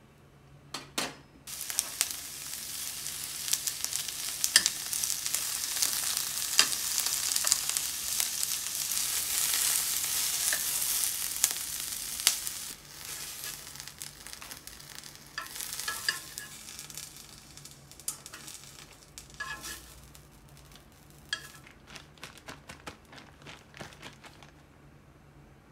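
Red and yellow bell pepper strips sizzling in a frying pan. The sizzle starts suddenly about a second and a half in and is loudest for the first ten seconds or so, then goes on quieter with scattered clicks.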